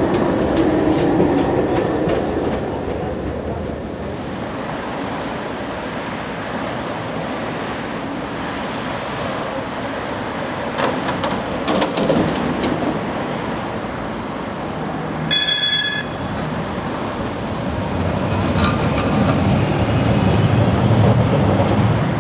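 A city tram running along street track, with a cluster of sharp clacks as its wheels cross rail joints about 11 seconds in. About 15 seconds in there is a short high ringing tone, and near the end a faint high steady whine sits over the running noise.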